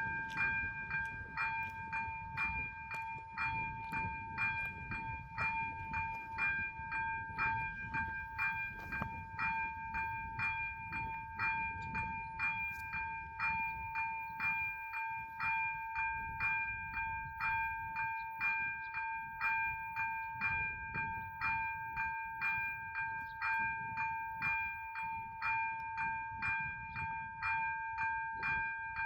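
Czech level-crossing warning bells (ZV-02) ringing, struck about twice a second over a steady ringing tone: the crossing is closed to warn of an approaching train.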